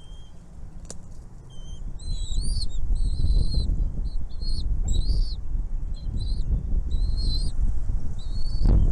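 Nestlings in a nest chirping, a quick run of short, high, overlapping calls that starts about two seconds in, typical of begging for food, over a low rumble.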